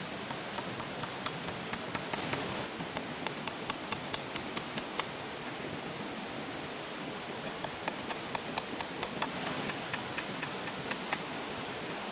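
Two runs of light, evenly paced hammer taps, about three a second, with a pause of about two seconds between them, over a steady rushing background.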